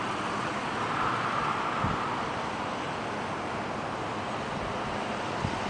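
Steady hissing background noise with no distinct events, only a faint knock about two seconds in and another near the end.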